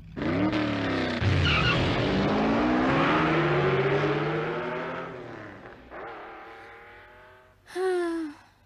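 Cartoon sports car's engine revving up as it pulls away, its pitch rising, then fading into the distance. A brief falling tone follows near the end.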